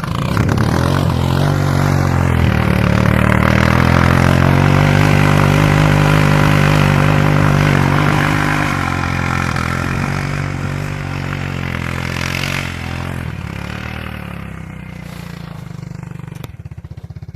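Suzuki King Quad ATV's single-cylinder four-stroke engine pulling hard under steady throttle for about twelve seconds. It then backs off and drops to a low, even idle near the end.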